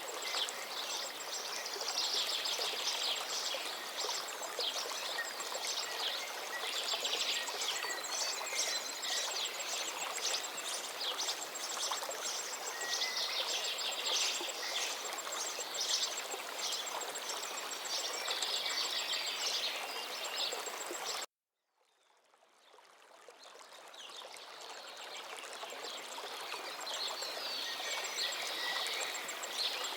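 Forest stream flowing steadily with songbirds calling and twittering over it. About two-thirds of the way through the sound cuts out completely for a moment, then fades back in gradually, as at an audio loop or edit point.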